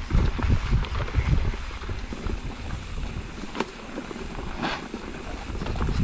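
Mountain bike rolling fast down a smooth dirt trail: wind buffeting the camera microphone over the hum of the tyres, with a few sharp clicks and rattles from the bike.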